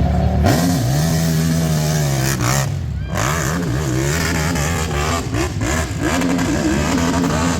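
V-twin engine of a KTM RC8 in a Yamaha YFZ450 quad at full throttle on a hillclimb run. The revs climb fast at the start, hold high for about two seconds, drop, then rise and fall rapidly over and over as the throttle is worked over the bumps.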